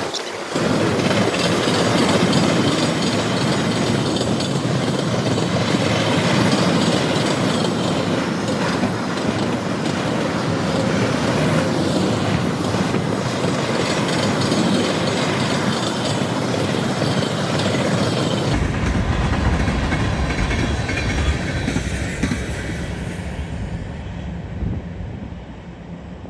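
Freight train cars rolling past, wheels clacking over the rail joints with some flange squeal; the noise fades away over the last couple of seconds.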